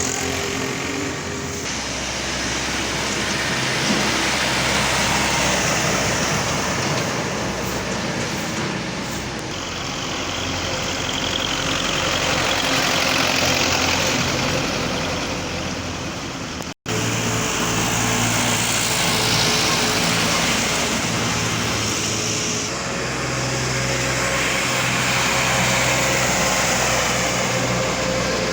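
Belarus 510 tractor's diesel engine running steadily, a continuous engine drone with mechanical rattle and road noise. The sound cuts out for an instant about two-thirds of the way through.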